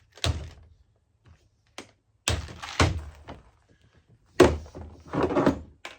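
Several irregular knocks and thunks, with a few short rough scrapes between them, like hard objects being handled and set down.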